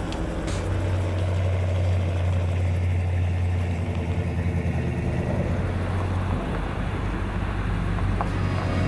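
Helicopter running: a steady low drone of rotor and engine.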